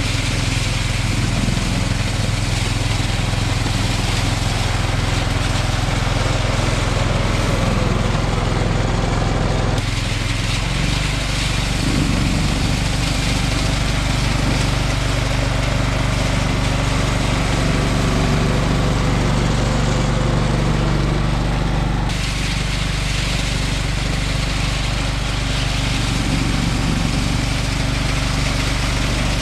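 The 17-horsepower Kawasaki engine of a John Deere 185 lawn tractor running steadily while powering a 38-inch single-stage snowblower. The engine tone shifts abruptly about ten seconds in and again about twenty-two seconds in.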